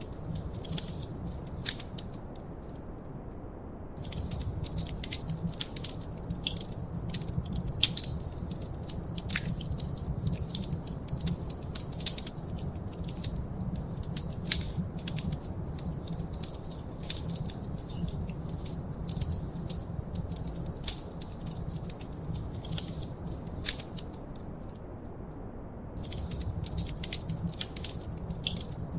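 Wood fire crackling in a fireplace: many sharp pops and snaps over a steady low rumble of the flames. The crackling thins out briefly about three seconds in and again a few seconds before the end, while the rumble carries on.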